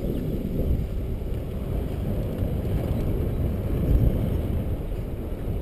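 Wind buffeting a bike-mounted camera's microphone while cycling: a steady low rumble with no breaks.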